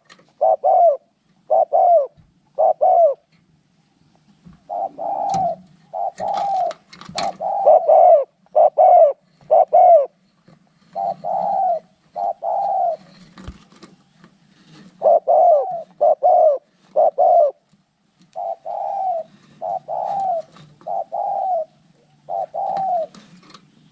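Spotted doves cooing in rivalry: short, repeated coo notes in groups of two to four, one group after another with brief pauses, denser in the middle where calls follow each other closely.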